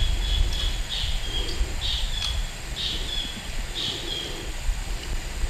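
A bird calling over and over, one short call about once a second, over the low rumble of wind on the microphone.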